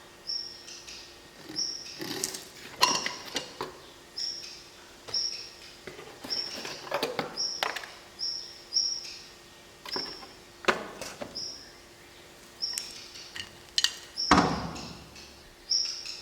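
A bird chirping a short, high, single note about once a second, over scattered clicks and clanks of metal brake parts being handled. A heavier knock comes near the end.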